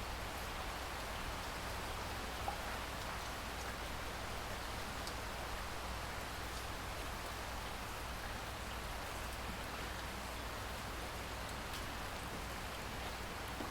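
Steady rain falling, with the occasional distinct drop tick over an even hiss.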